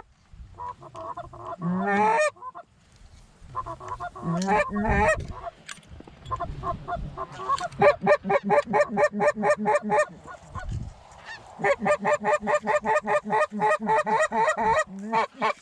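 Canada goose honking: a few drawn-out honks, then two long runs of short clipped clucks at about five a second, loud and close.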